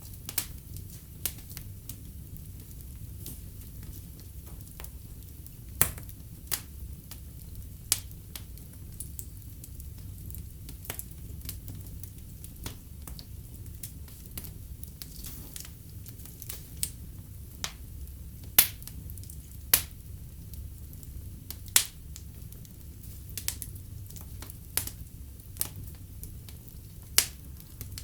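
Wood fire burning in a fireplace: a steady low rumble of flames with irregular sharp crackles and pops from the burning logs, a few of them much louder than the rest.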